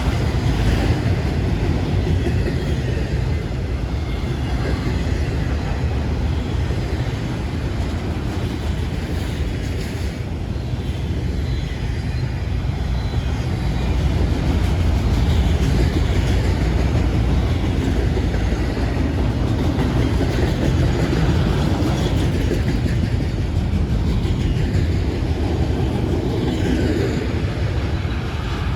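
Freight train rolling past: a steady low rumble, a little louder about halfway through.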